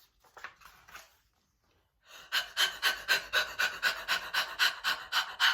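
A woman's fast, rhythmic panting, about five breaths a second, starting about two seconds in. The panting is acted, giving voice to the bear's breathlessness as he races back for his hat.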